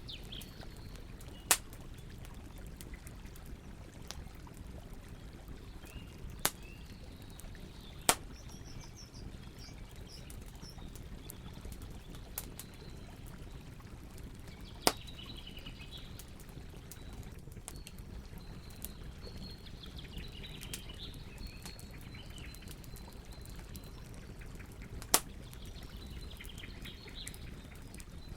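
Wood campfire crackling, with a steady low bed of burning and a few sharp, loud pops among many small ticks. Birds chirp in the background at several points.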